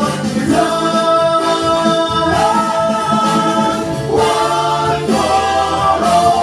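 Music with a group of voices singing together in long held notes.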